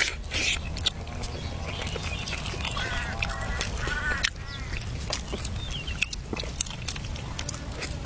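A few short, pitched animal calls about three seconds in, among scattered clicks and knocks over a steady low hum.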